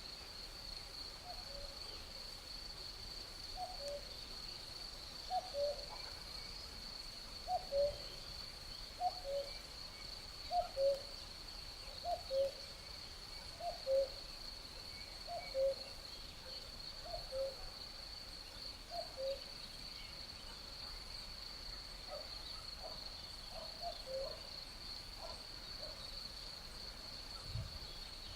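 A cuckoo calling its two-note "cuck-oo", the second note lower, repeated about every second and a half for a dozen or so calls and turning more uneven near the end. Beneath it, crickets keep up a steady high trill.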